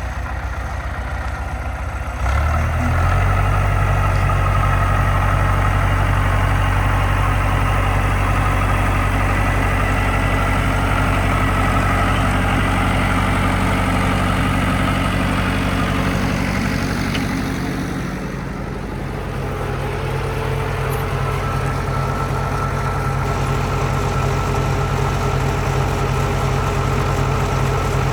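Massey Ferguson 180 tractor's four-cylinder Perkins diesel engine running. About two seconds in it picks up speed and runs steady. Partway through it eases down briefly, then settles into a steady run again.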